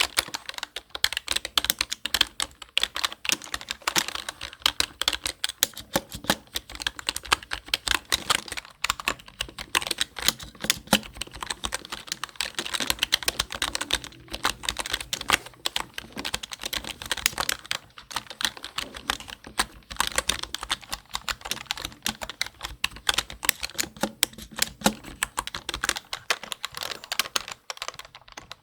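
Typing on a computer keyboard: a fast, irregular stream of key clicks with a few brief pauses.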